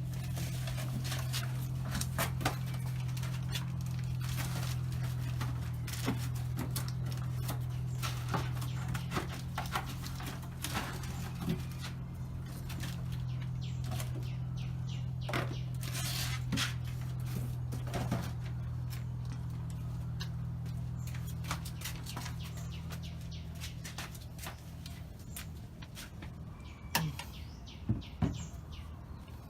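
Scattered clicks, taps and knocks of hand tools working on a car battery's terminals and mounting, with a few louder knocks near the end, over a steady low hum.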